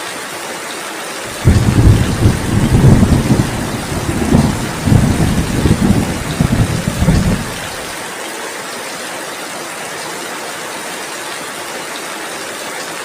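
Steady heavy rain hissing, with a loud roll of thunder that breaks in suddenly about a second and a half in, rumbles in several swells for about six seconds and then dies away, leaving the rain alone.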